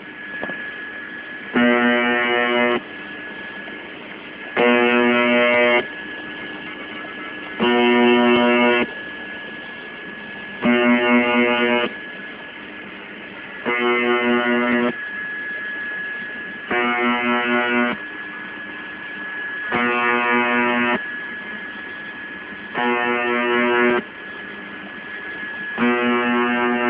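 UVB-76 'The Buzzer' shortwave signal received over the radio: a harsh buzz a little over a second long repeating about every three seconds, nine times, over receiver static with a steady high whistle between the buzzes.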